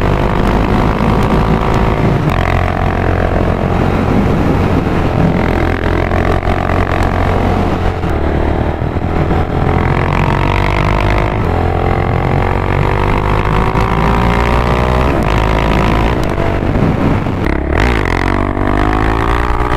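KTM Duke 690's single-cylinder engine pulling hard on the road. Its pitch climbs and drops back at each gear change, several times over, with steady wind rush on the microphone.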